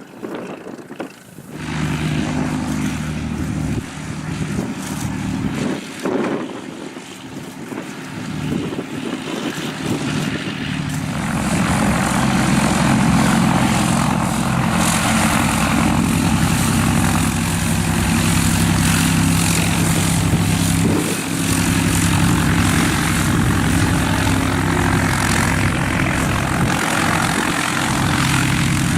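Propeller airplane engine running with a steady drone, growing clearly louder about eleven seconds in and then holding at high power, as for taxiing and the takeoff run.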